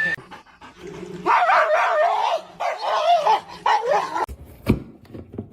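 A dog giving three drawn-out, wavering whining cries, followed near the end by a few sharp knocks.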